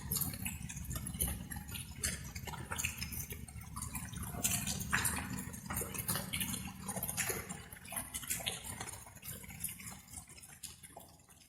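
Water drops falling irregularly, like light rain dripping, over a low steady rumble. The sound fades down near the end.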